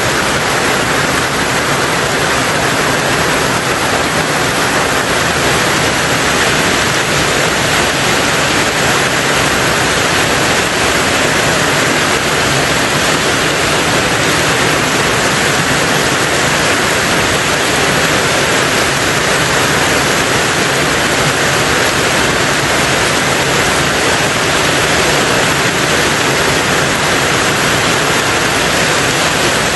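Steady rain falling on a tin roof: a dense, even hiss of countless drops with no single hits standing out.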